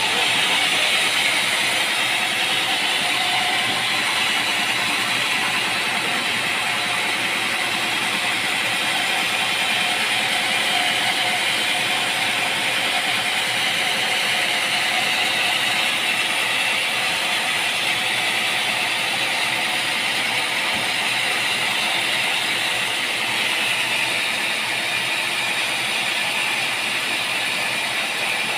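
Machinery running with a steady, unbroken mechanical noise.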